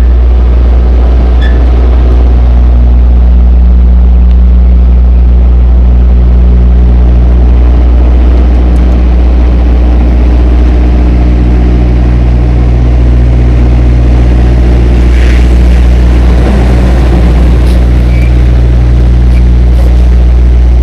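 Tractor-trailer's diesel engine running with a loud, steady low drone that wavers briefly about three-quarters of the way through.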